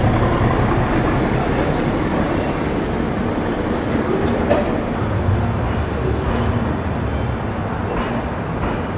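Duronto Express passenger train rolling slowly into a station platform as it comes to a halt, with a steady rumble. A thin, high whine climbs slightly in pitch and cuts off about five seconds in.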